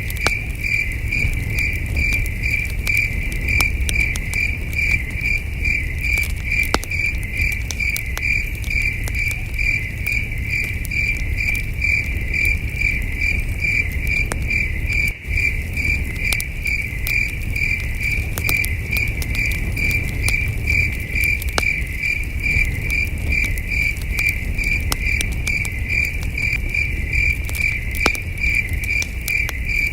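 Crickets chirping in an even, unbroken rhythm, over the crackle and scattered pops of a campfire and a low rumble.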